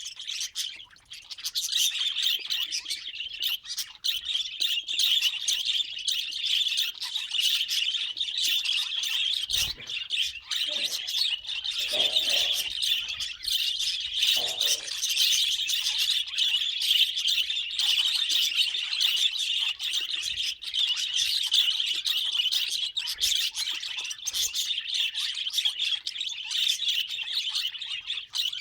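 Pet budgerigars chirping and chattering in a continuous, dense warble, with a few lower calls near the middle.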